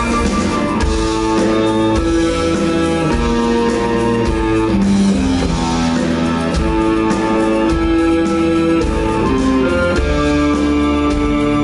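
Rock band playing live in an instrumental break between sung verses: long, held electric guitar melody notes over bass and drums.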